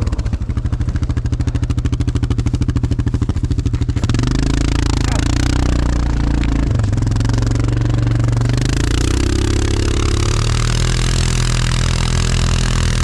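ATV engine running at low revs with an even, rapid pulse, then revving up about four seconds in and pulling hard under load. A hissing rush, typical of tyres churning through knee-deep snow, rises with the revs.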